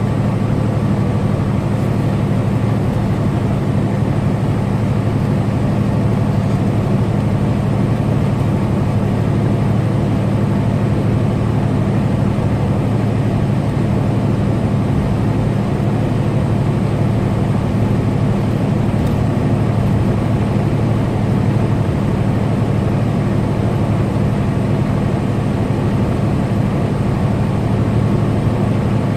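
Semi-truck's diesel engine and road noise heard from inside the cab while cruising steadily on the highway: an even, unchanging low drone.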